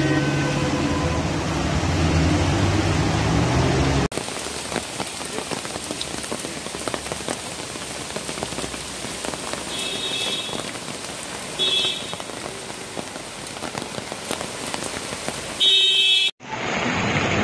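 Heavy rain falling, a steady hiss of drops, after a low steady hum that cuts off abruptly about four seconds in. Three short high-pitched tones sound over the rain in the second half.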